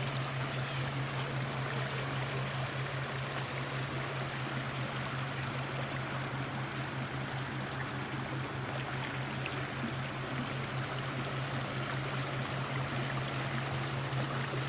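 Water rushing steadily, an even hiss with no breaks, over a steady low hum.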